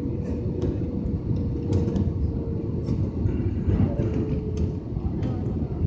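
Airbus A320neo jet engines heard as a steady low rumble with a faint steady hum above it.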